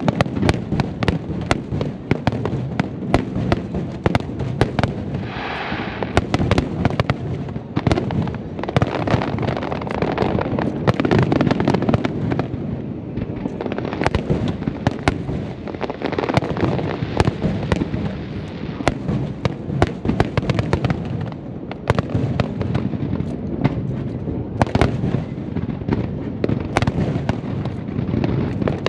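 Fireworks display: a dense, continuous barrage of shell bursts and crackling, many sharp bangs every second. About five seconds in, a hissing, crackling spray rises above the bangs.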